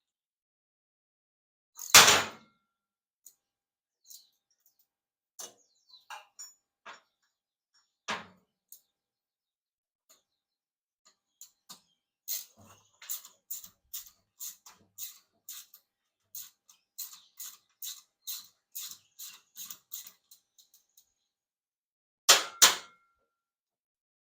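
Hand tools working on the scooter's exhaust fasteners: a loud metal clank, a few scattered knocks, then a run of quick even clicks, about two or three a second, like ratchet strokes, and a loud double clank near the end.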